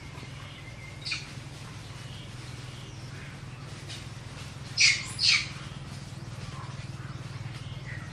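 Baby monkey squealing: two loud, short, high-pitched squeals about half a second apart near the middle, with a shorter squeak about a second in and faint chirps around them, over a steady low hum.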